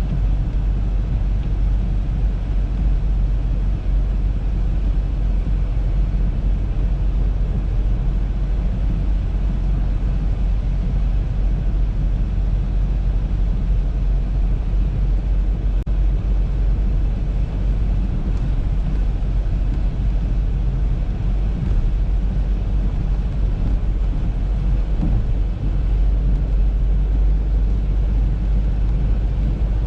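Audi A3 driving on a snowy road: a steady, low rumble of road and engine noise that holds even throughout.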